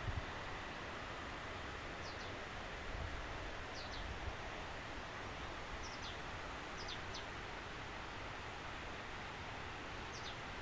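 Steady outdoor hiss with a small bird giving short, high, falling chirps every second or two, sometimes two or three in quick succession. Low rumbles of wind on the microphone now and then.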